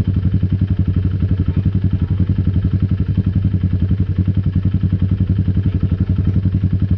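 ATV engine running steadily at low speed close by, with an even, rapid pulsing beat.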